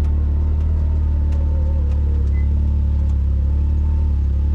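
A vehicle's engine and drivetrain run as a steady low drone while driving, with a few faint clicks over it.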